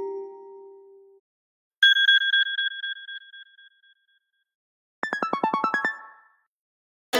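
A series of short iPhone iOS 17 alert and text tones, each followed by a silent gap. A mallet-like tone dies away in the first second, a single bright chime rings out about two seconds in, and a quick run of about a dozen short plucked notes plays about five seconds in. A new, fuller tone starts right at the end.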